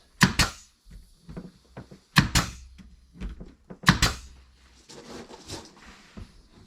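Sharp knocks in quick pairs, three pairs about two seconds apart, with fainter clatter between.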